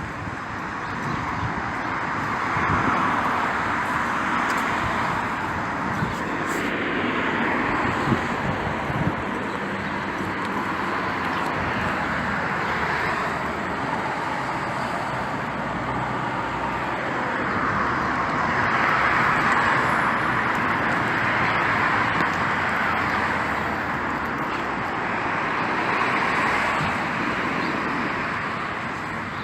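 Rain recorded outdoors beside a road: a steady wet hiss, with the hiss of tyres on the wet road swelling and fading as vehicles pass, several times.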